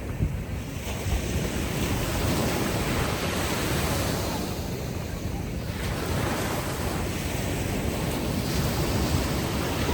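Ocean surf washing ashore on a beach, swelling and easing over a few seconds, with a steady low rumble of wind on the microphone.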